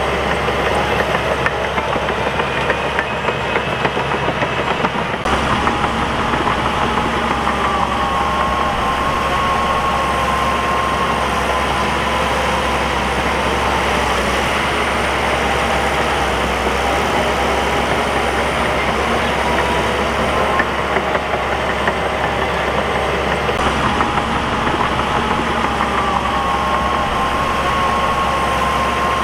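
Crawler bulldozer's diesel engine running steadily, with a whine that wavers and slowly slides in pitch over the engine noise.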